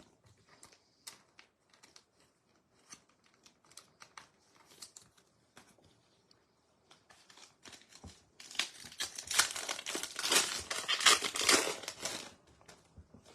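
Trading cards being handled with faint light clicks, then, about eight seconds in, a foil trading-card pack wrapper crinkling loudly for about four seconds as it is torn open or crumpled.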